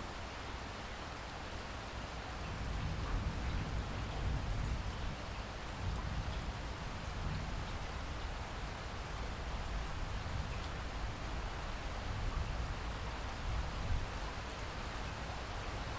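Steady rainfall: an even hiss of rain with a low rumble beneath it, growing a little louder about two and a half seconds in.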